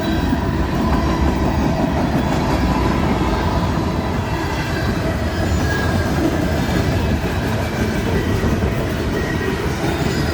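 Railcars rolling steadily past at close range: a continuous rumble of wheels on rail with faint high wheel squeal.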